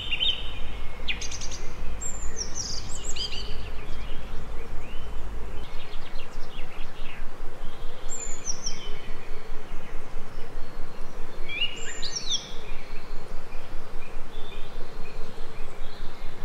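Small birds chirping now and then, in short falling chirps, over a steady outdoor background hiss. A low rumble underneath stops about six seconds in.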